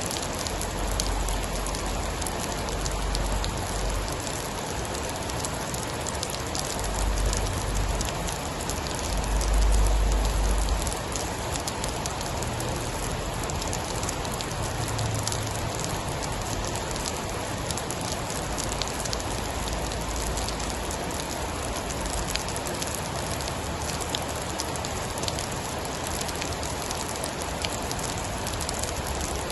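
Steady heavy rain falling with a patter of drops, and deep low rumbles of distant thunder a few times in the first half, the loudest about ten seconds in.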